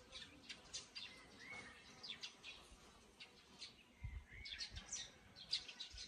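Small birds chirping: faint, quick high chirps scattered throughout, with a couple of short slurred notes, and two soft low thumps about four seconds in.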